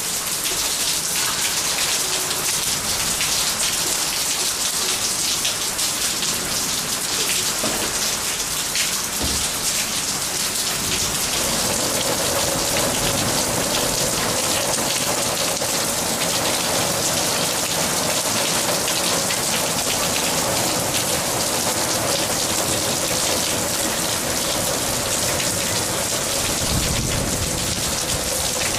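Heavy rain falling steadily on a concrete yard, plants and a car's bonnet, a constant hiss of drops.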